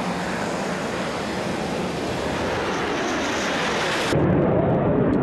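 Jet fighter engine noise, a loud steady rush. About four seconds in it cuts abruptly to a duller, deeper rumble.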